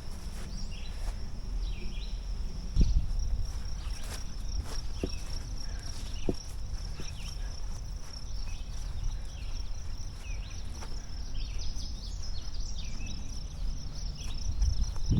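Forest ambience: insects trilling in a steady high tone, with many short chirping calls over it, a low rumble and a few soft clicks and knocks.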